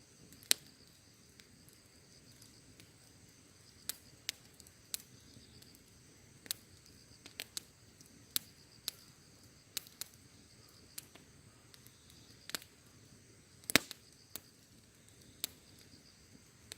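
Campfire burning with scattered sharp crackles and pops at irregular intervals, two of them much louder than the rest, over a low steady hiss. A steady high insect trill runs behind it.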